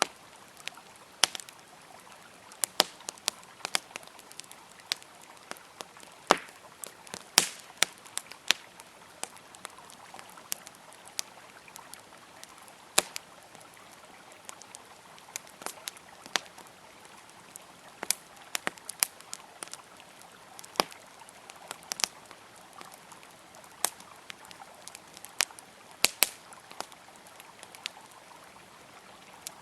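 Campfire crackling, with irregular sharp pops, one or two a second, over the steady rush of a flowing river.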